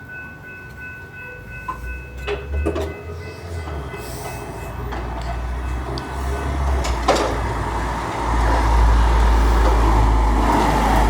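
A train passing: a low rumble builds up, with a few sharp clacks, and grows loud and steady in the second half.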